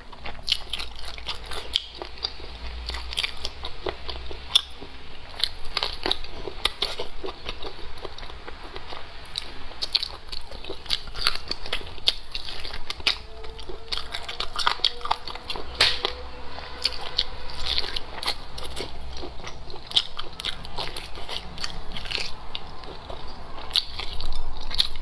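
Close-miked eating sounds: wet chewing, lip smacks and many small clicks as a person gnaws and chews braised pork trotter.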